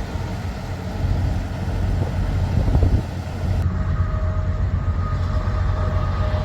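Semi truck's diesel engine and road rumble, a steady deep drone. About halfway in, two faint steady tones join it.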